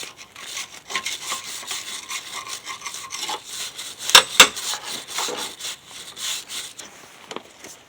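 Wire brush scrubbing back and forth on the steel frame rail, a rapid run of rasping strokes to clean the surface for marking. Two sharp knocks come a little after four seconds in.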